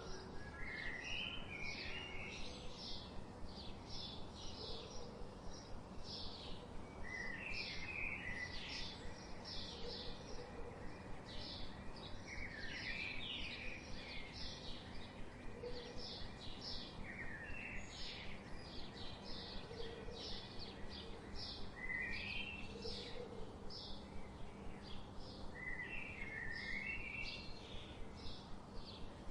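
Songbirds chirping and singing: a steady stream of short, high chirps, with a lower warbling phrase breaking in every few seconds.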